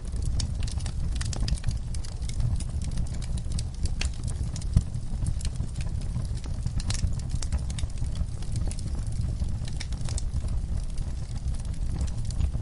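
Wood fire burning in a fireplace, crackling and popping irregularly over a low steady rumble of the flames, with one louder pop about five seconds in.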